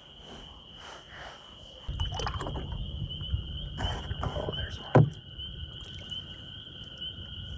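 A kayak being handled, with a low rumble starting about two seconds in, then a single sharp knock against the kayak's hull about five seconds in: noise enough to spook a nearby carp. A steady high insect trill runs underneath.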